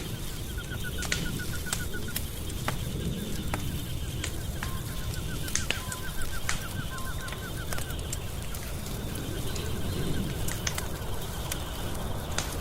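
Wood fire crackling, with sharp pops scattered over a low steady rumble. Mixed in are two runs of rapid, short, high repeated notes from a small creature and a faint steady high trill.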